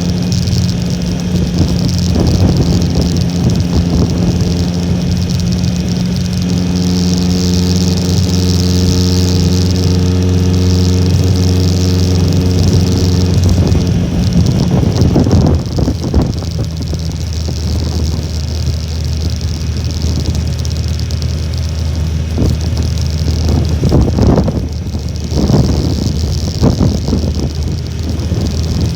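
Honda Little Cub's small four-stroke single-cylinder engine running under way, its note dropping to a lower, steadier pitch about halfway through. Gusts of wind buffet the microphone twice in the second half.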